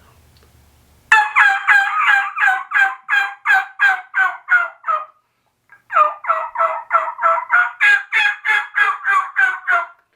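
Woodhaven cutter-style diaphragm turkey mouth call blown very hard: two long runs of loud hen yelps, about three notes a second, with a short break in the middle. Blown this hard it turns squeaky and doesn't sound that good.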